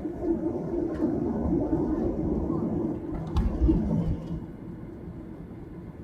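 Low rumbling with a few sharp knocks inside a Boeing 737-800 cabin on the ground, lasting about four seconds and loudest just before it stops.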